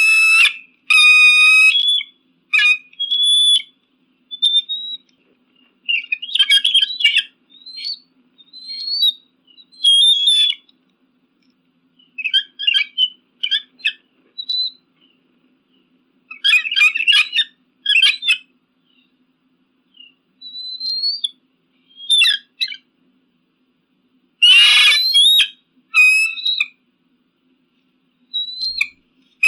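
Eagle calling: bouts of high, whistled piping notes and rapid chattering calls separated by short pauses, with one harsher screech about 25 seconds in.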